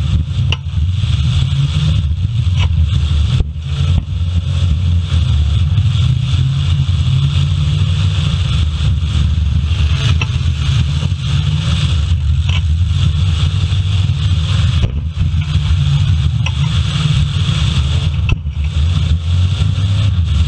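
Full-size demolition derby cars' engines running and revving together, with several sharp crash knocks from cars hitting one another spread through the stretch.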